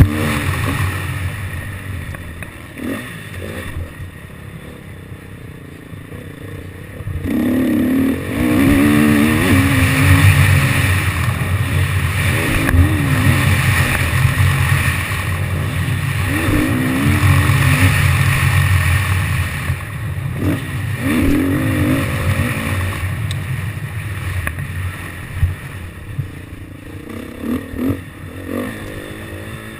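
KTM motocross bike engine revving up and down over and over as the throttle is opened and closed. It is quieter off the throttle from about one to seven seconds in and again through the last third.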